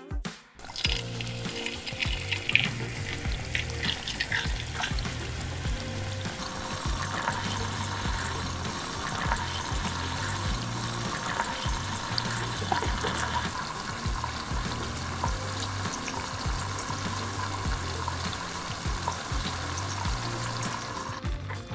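Small meatballs frying in shallow oil in a tiny steel wok: a steady sizzle with scattered small pops.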